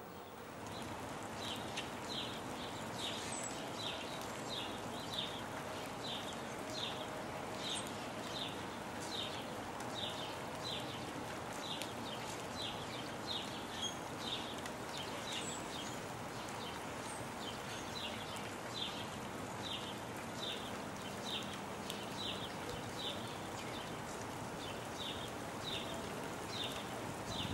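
Steady rain falling, with a bird repeating a short high call about twice a second throughout.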